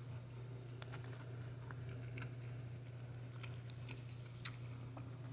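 Faint chewing of a mouthful of crispy fried chicken, with scattered soft crunching clicks, over a steady low hum.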